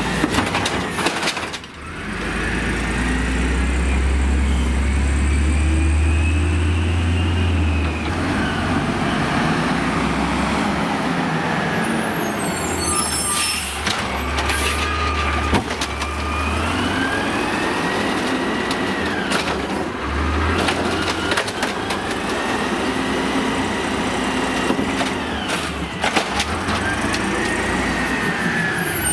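Amrep automated side-loader garbage truck working: the engine runs with a deep rumble while a hydraulic whine rises and falls again and again as the arm cycles, with short air-brake hisses about twelve seconds in and near the end.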